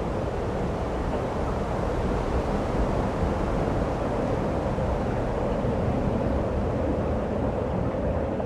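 Steady snowstorm wind: a continuous rushing noise with a low rumble underneath.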